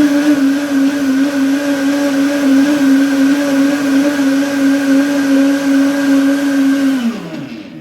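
Cocktail blender with a sound enclosure, running steadily as it blends a piña colada with ice, with a constant motor hum. About seven seconds in it is switched off and the motor winds down, its pitch falling away.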